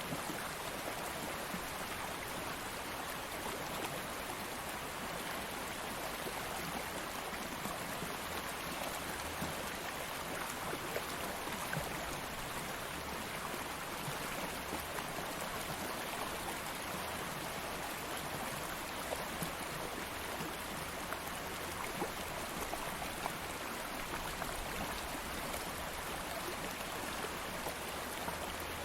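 Shallow stream flowing steadily over stones, with small splashes and gurgles breaking the even rush of water.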